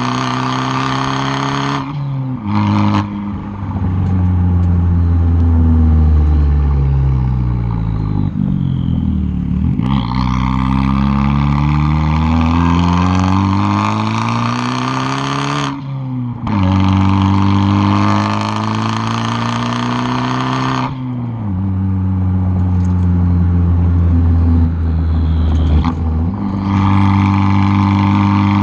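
The 2013 Fiat 500 Abarth's turbocharged four-cylinder exhaust, heard close up at the tailpipe, is pulling hard through the gears with several abrupt shifts. About eight seconds in, the driver lifts off: the note falls away, then climbs again under throttle.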